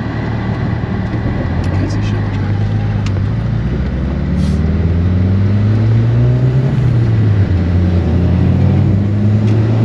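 Car engine heard from inside the cabin over road noise, its pitch climbing as the car accelerates, dropping briefly about seven seconds in, then rising again.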